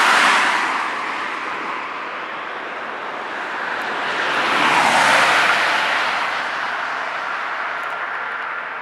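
Road traffic: two cars passing one after the other, their tyre hiss swelling and fading, the first right at the start and the second loudest about five seconds in.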